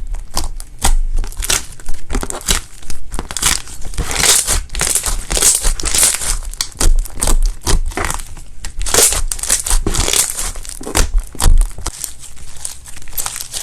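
Slime being pressed and kneaded by hand, giving a dense run of crinkly, crackling pops.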